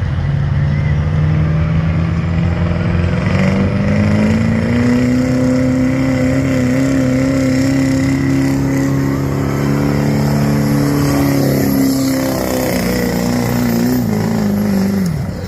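Ford diesel pickup engine at full throttle under load on a truck pull. Its pitch climbs over the first few seconds, holds high and steady, then drops sharply near the end as the pull ends.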